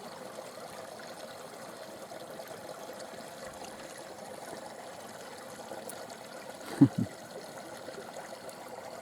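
A stream running steadily, a constant trickling hiss of flowing water. About seven seconds in, a person makes two short voice sounds.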